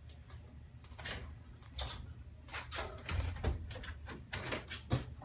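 Metal hardware of a roll-up shed door rattling and clicking as it is handled: a run of irregular clicks, knocks and short scrapes, busier in the second half.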